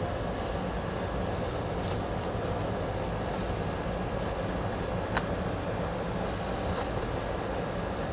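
A steady low rumble of running background noise, with a couple of light clicks about five and seven seconds in.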